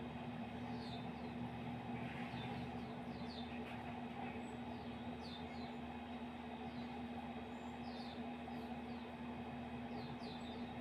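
Short, high bird chirps, each sliding down in pitch, given irregularly every second or so, over a steady low hum.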